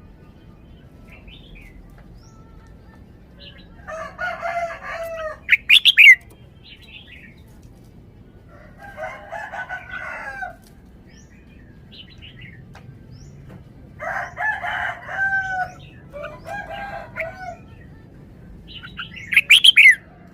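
Red-whiskered bulbul singing: short warbling phrases every few seconds, with sharper, louder high notes about six seconds in and again near the end.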